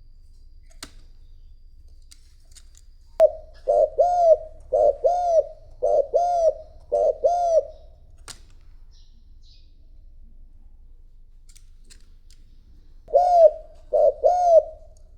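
Spotted dove cooing: a quick series of short, arched coos in pairs, about eight of them, then after a pause a shorter run of three near the end. It is a decoy bird's coo, used to call in wild doves.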